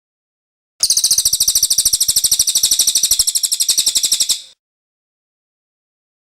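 A cililin singing one long, rapid trill of high, clear repeated notes, about a dozen a second, starting about a second in and stopping abruptly after about three and a half seconds.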